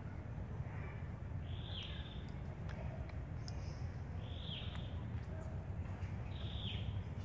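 A bird calling repeatedly: a short high note that falls in pitch, about four times, every two to three seconds, over a steady low rumble.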